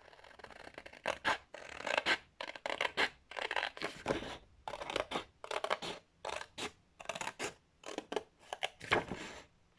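Scissors cutting a strip of card, a long run of short, irregular snips.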